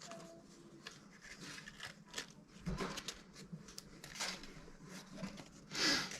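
Scattered light clicks and rustles of small objects being handled, with a louder short rustle near the end.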